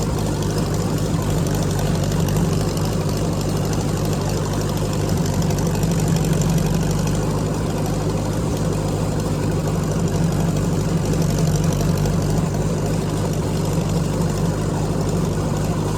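Tractor engine running steadily at an even speed, a constant low hum with no change in pitch or loudness.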